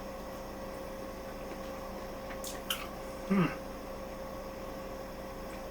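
A person tasting food and giving a short "mm" of approval about three seconds in, falling in pitch, over a steady low kitchen hum, with a soft click a little before it.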